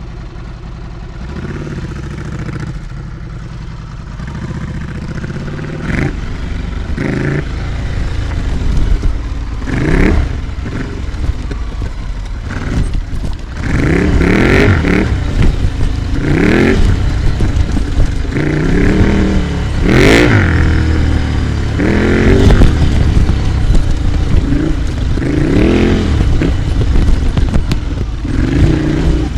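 Ducati Scrambler Icon's 803 cc air-cooled L-twin through an HP Corse GP07 exhaust with the baffle in, running low at first, then from about six seconds in revving up and dropping back over and over as the throttle is opened and closed, roughly every two seconds.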